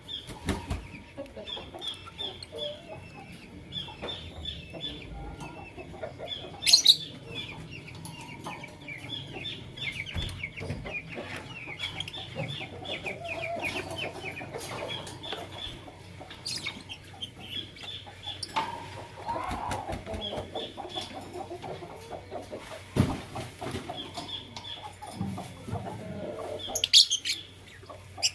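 Fischer's and masked lovebirds chattering: rapid runs of high chirps, with a loud shrill call about seven seconds in and another near the end.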